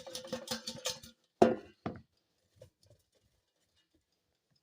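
Chips rattling in a metal air fryer basket as it is shaken, over a steady hum that stops about a second in. Then two loud knocks about half a second apart.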